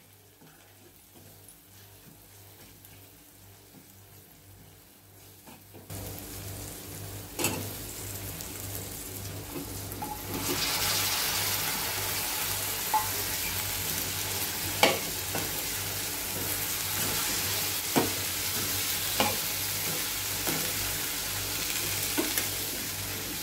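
Vegetables frying in oil in a nonstick kadhai, stirred with a steel spoon that knocks and scrapes the pan now and then. The sizzle is faint at first and grows loud and hissing about ten seconds in, as raw cauliflower florets go into the hot masala.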